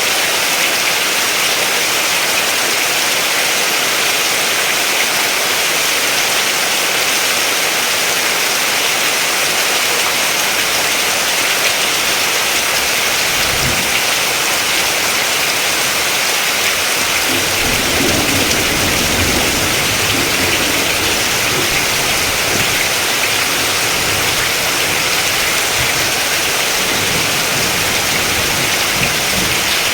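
Steady, even rain falling, with a dense hiss and no pauses. Low rumbles swell up about halfway through and again a few seconds later.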